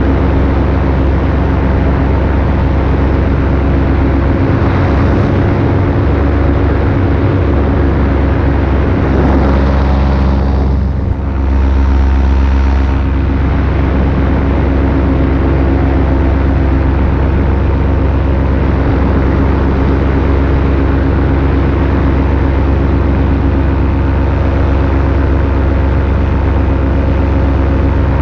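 Paramotor engine and propeller running steadily in flight, a constant loud drone with a brief dip and pick-up about eleven seconds in.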